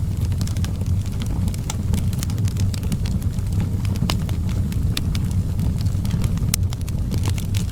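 Outdoor wood fire crackling, with irregular sharp pops and snaps over a steady low rumble.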